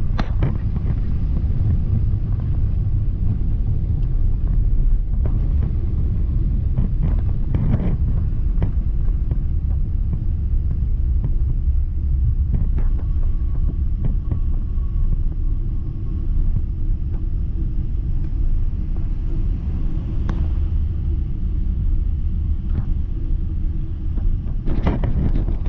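Steady low rumble of a moving vehicle, heard from inside, with occasional short knocks and rattles.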